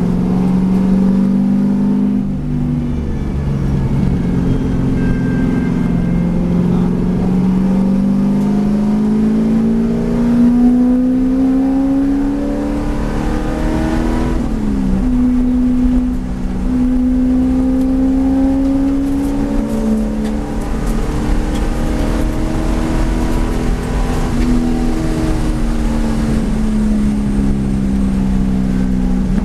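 V8 race car engine under load, its pitch climbing slowly for a long stretch, then breaking sharply about halfway through as the revs drop, and rising and falling again after that as the car is driven around the circuit.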